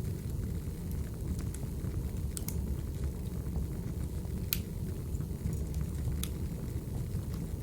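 Wood fire burning: a steady low rumble with scattered sharp crackles and pops, the loudest about four and a half seconds in.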